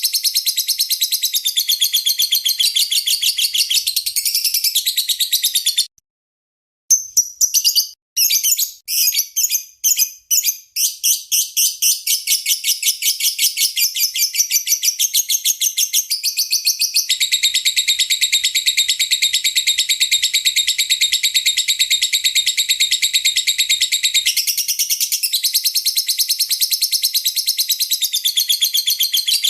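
Lovebird giving the long rapid chattering trill that keepers call ngekek panjang. About six seconds in it breaks off for a second, then restarts as separate ticking chirps that speed up into the continuous trill. From about 17 to 24 s it runs as a steadier, more even trill.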